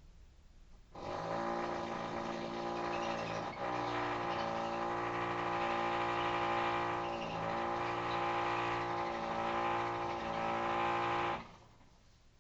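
Electric rotary hammer drill (perforator) running under load for about ten seconds, a steady hammering drone with brief dips in pitch, starting and stopping abruptly.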